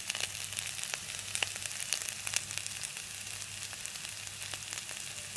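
Cauliflower florets frying in hot oil in a pan: a steady sizzle dotted with frequent sharp pops and crackles, over a faint low steady hum.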